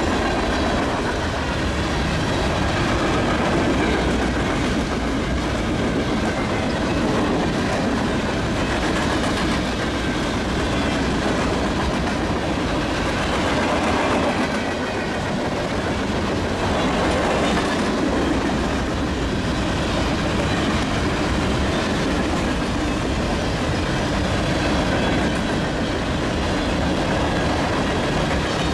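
Cars of a Union Pacific mixed freight train, covered hoppers and tank cars, rolling past at speed: steel wheels on rail making a steady, unbroken noise.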